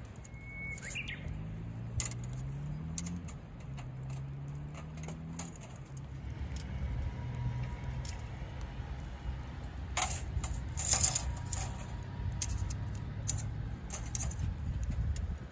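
Wood fire crackling, with scattered sharp pops and a quick run of pops about ten seconds in, over a low steady rumble. A short whistle-like bird call sounds near the start.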